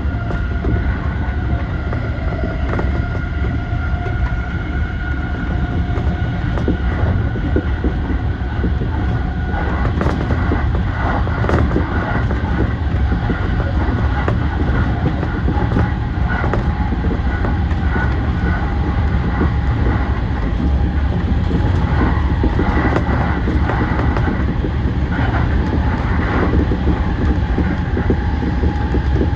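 JR E235-1000 series electric train running at speed, heard from inside the leading car: a steady low rumble with a whine whose pitch shifts partway through. Scattered clicks from the wheels pass over the rails, most of them in the second half.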